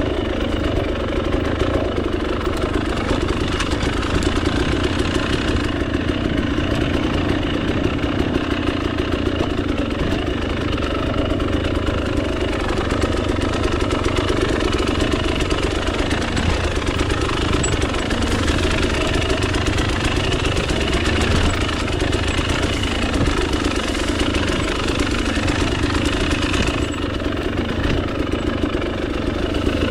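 Two-stroke dirt bike engine idling steadily.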